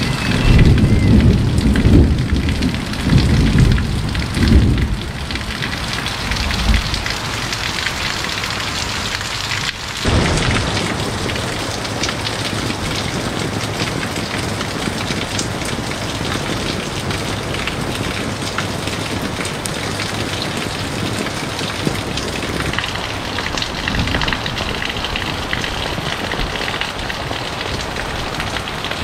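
Heavy rain falling and running off the roof eaves onto wet ground, a steady hiss. Thunder rumbles low and rolling through the first several seconds, then the rain carries on evenly after a brief dip about ten seconds in.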